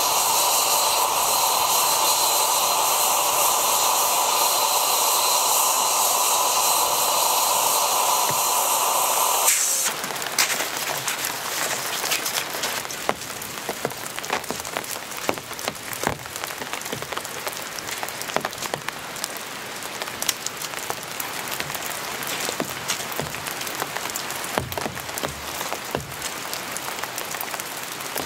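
A steady hiss for about the first ten seconds, which cuts off abruptly. Then rain pattering, a dense, irregular scatter of sharp drop ticks.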